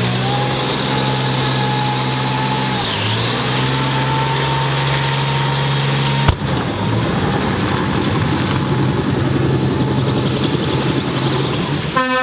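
A car engine held at steady revs, with a thin high whine over it; the pitch dips briefly about three seconds in and comes back. Halfway through a sharp click cuts in, and the sound turns rougher and noisier, with a short higher tone right at the end.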